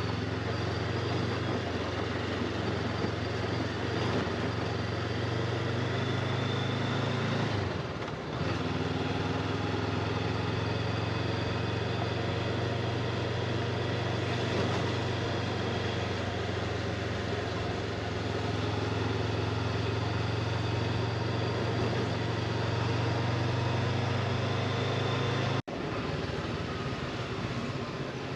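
Honda motorcycle engine running at a steady cruising pace, under heavy wind and road noise on the rider's camera, with a brief dip about eight seconds in. Near the end the sound cuts off suddenly and picks up again without the low engine drone.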